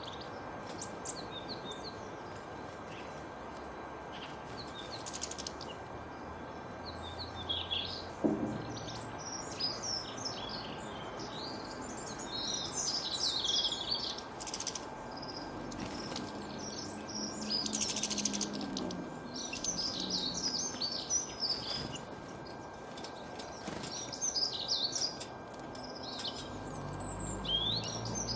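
Several birds chirping and singing, with many short, quick calls coming in clusters throughout, over a steady outdoor background noise.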